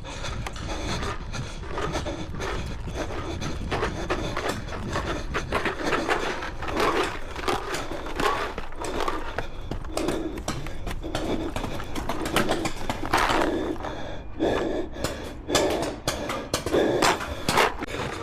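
Heavy breathing, repeated about once a second, over rustling and scraping close to the microphone, with frequent short clicks and knocks.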